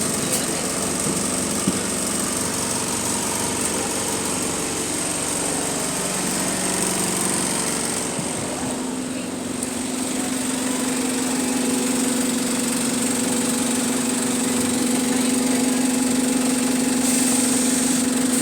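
Interior running sound of an Alexander Dennis Enviro200 MMC bus's engine and driveline on the move. It is a steady drone with humming tones that shift in pitch about six seconds in and again about nine seconds in, after which a stronger steady hum holds.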